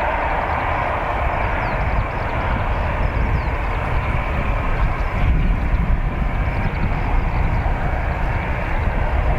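Steady jet noise from the CFM56 engines of an Airbus A320-214 running at a distance, over a low rumble.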